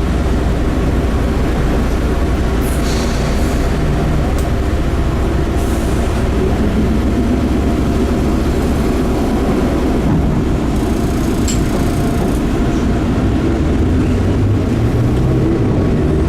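Enshu Railway 30 series electric train running along the line, heard from inside the car: a steady, loud noise of wheels on rail and running gear, with a couple of brief higher clicks.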